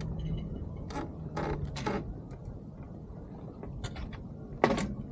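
Sailboat deck hardware being worked: a series of short mechanical creaks and ratcheting rasps, typical of lines running through blocks and a winch being turned, with the loudest rasp near the end.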